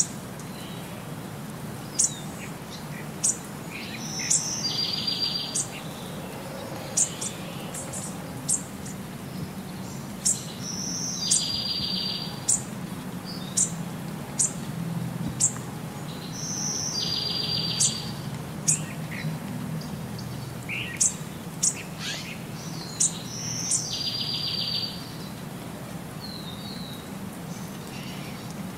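Birds chirping: short, sharp high chirps every second or so, and a buzzy call of the same shape repeating about every six seconds, over a steady low background noise.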